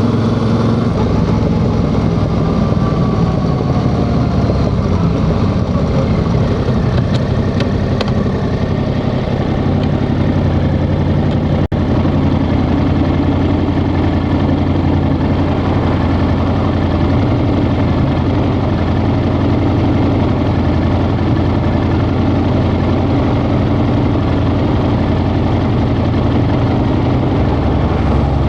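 Yamaha XSR700's 689 cc parallel-twin engine, its note falling in the first couple of seconds and then running steadily at low revs, like idling. There is a very brief dropout in the sound near the middle.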